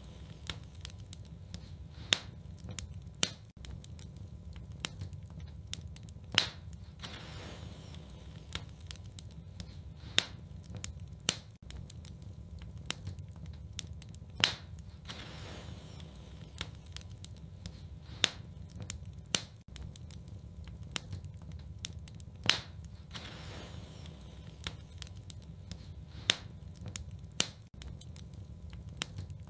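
Wood fire crackling in a fireplace, with sharp pops every few seconds over a steady low rumble.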